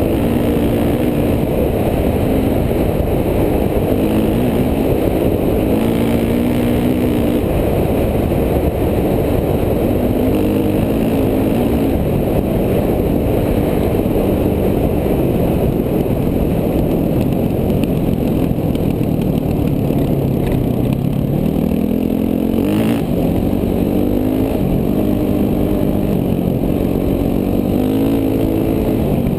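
KTM 450 dual-sport's single-cylinder four-stroke engine under way on the trail, its revs rising and falling with the throttle, dropping low once and climbing again. A single sharp knock about three-quarters of the way through.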